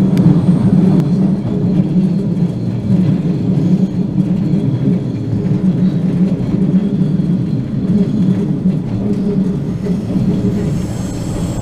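Passenger train running at speed, heard from inside the carriage: a steady low rumble of the train on the rails.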